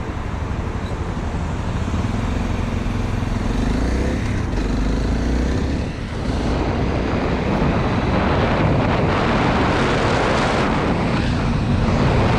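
Honda CRF250L's single-cylinder four-stroke engine running as the bike is ridden, rising in pitch as it accelerates over the first few seconds, then pulling steadily and a little louder after a short lift-off about six seconds in, with wind noise over it.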